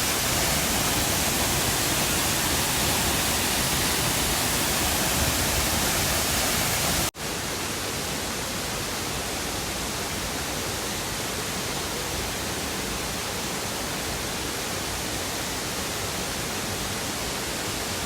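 Minoh Falls waterfall rushing, a steady, even roar of falling water. About seven seconds in it cuts out for an instant and comes back somewhat quieter.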